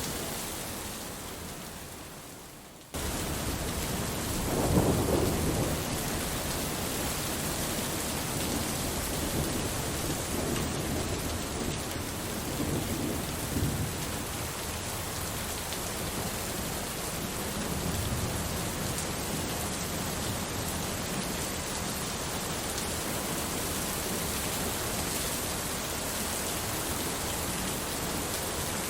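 Steady rain with rolling thunder: a strong rumble about five seconds in and weaker rumbles later. The rain fades down over the first few seconds, then cuts back in abruptly.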